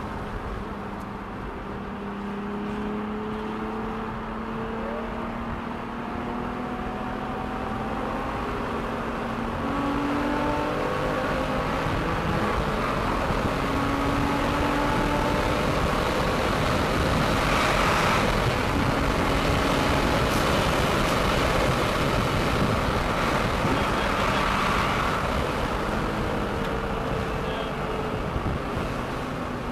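Sports car engine running hard at speed, its pitch climbing slowly and then dropping back several times as it pulls through the gears. Heavy wind and road noise builds to its loudest about two-thirds of the way through.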